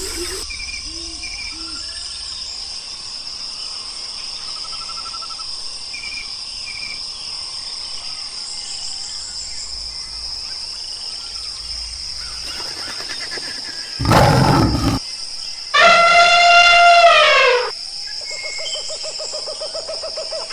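Wild animal calls over a steady high-pitched drone with scattered small chirps; about two-thirds of the way in comes a loud short rough call, then a longer loud pitched call that bends down at its end.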